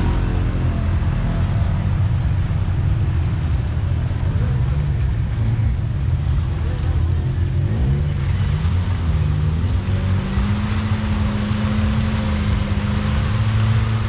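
Side-by-side UTV engine running steadily while under way. Its note settles into a steadier tone about ten seconds in and rises slightly near the end.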